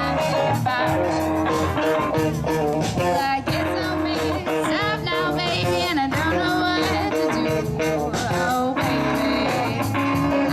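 Live band playing a blues-rock song: electric guitars, bass guitar and drums, with a wavering lead melody over the top.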